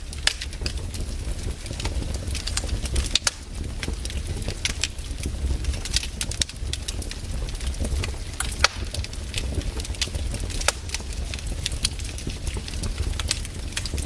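Wood campfire crackling, with frequent sharp irregular pops over a steady low rumble.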